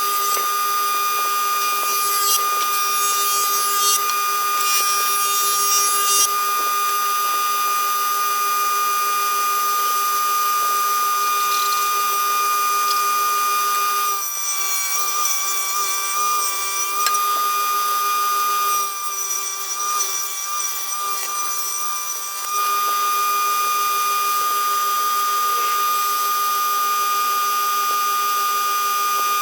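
Electric power tool motor running with a steady high whine, cutting into pine wood twice near the middle, where the pitch sags and wavers under the load of the cut.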